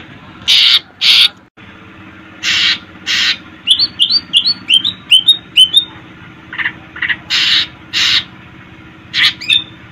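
Cucak ijo (green leafbird) singing. Paired harsh, rasping notes alternate with a quick run of about six rising chirps, over a low steady hum.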